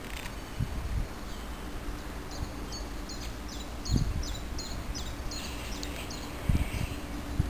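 A bird calling a quick run of about ten short, high chirps over about four seconds, over low outdoor rumble. A few low thumps, the loudest about four and six and a half seconds in, and a faint steady hum comes in about two seconds in.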